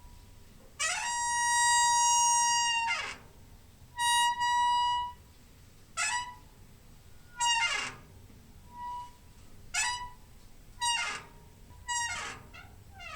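Door hinge squeaking over and over as a door is swung: a long high squeal of about two seconds about a second in, another around four seconds, then a run of short squeaks roughly once a second, many sliding down in pitch at their ends.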